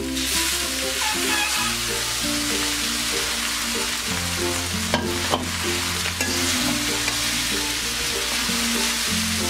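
Boiled noodles sizzling as they are fried and stirred in a hot karahi with chicken and scrambled egg, a steady hiss, with two sharp knocks about five seconds in. Soft background music with held notes plays under it.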